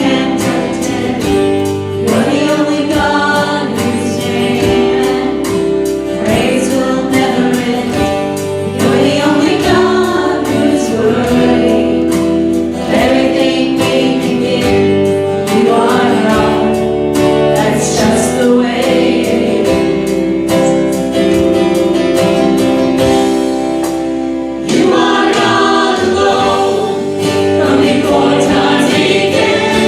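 Congregation or choir singing a hymn with instrumental accompaniment, held notes changing every second or two.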